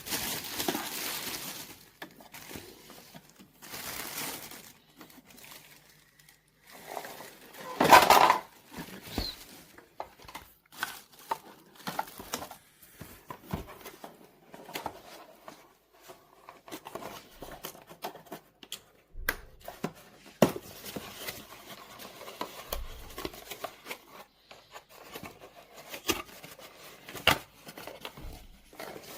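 Irregular crinkling and rustling with scattered sharp clicks and taps; the loudest rustle comes about eight seconds in.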